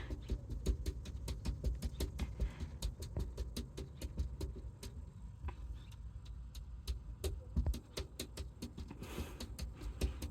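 A cat digging, its paws scratching and scraping quickly and irregularly at loose material, over a low rumble.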